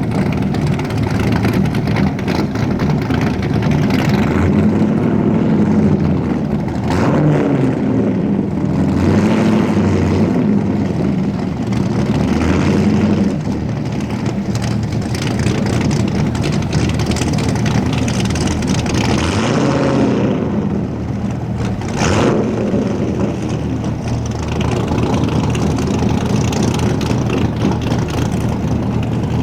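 Car engine running steadily, its revs rising and falling twice.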